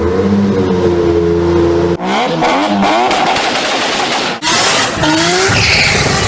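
Mk7 Ford Fiesta ST's 1.6 EcoBoost four-cylinder through its exhaust, in several short spliced clips: first held at steady revs for about two seconds, then blipped so that the pitch rises and falls a few times.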